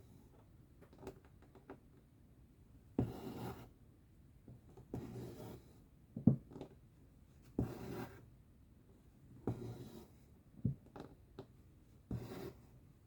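Cross-stitch needle and thread pulled through fabric: a short rasp about every two seconds, six in all, with small ticks of the needle in between.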